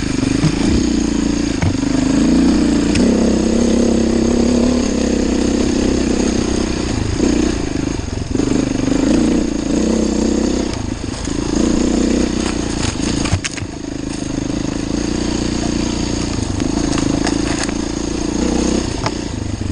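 Enduro dirt bike engine running on a trail ride, its pitch rising and falling as the throttle is opened and closed, with a sharp knock about two-thirds of the way through.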